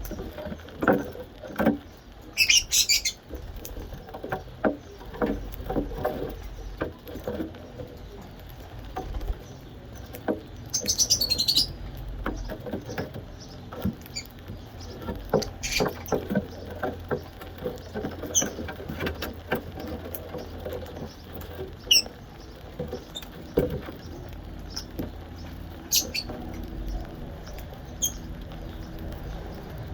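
Small pet parrots eating soft food: many quick pecking and beak clicks throughout, with two short, harsh calls, one a few seconds in and another about ten seconds in, and scattered brief chirps.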